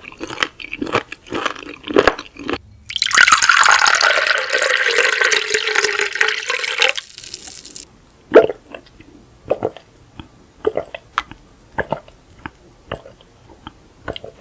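Close-miked chewing, then a drink poured into a glass for about four seconds, splashing with a steady ringing note. Then sparse wet mouth clicks and chewing resume.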